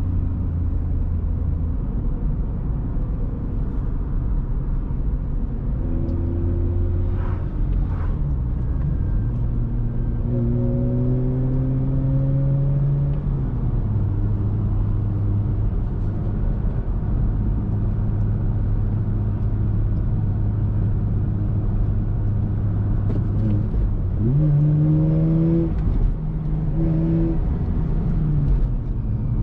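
Mazda RX-8's two-rotor Wankel rotary engine through an Re Amemiya aftermarket exhaust, accelerating in bursts whose pitch rises and then drops at the gear changes, with a long stretch of steady cruising in the middle and a few short rises near the end.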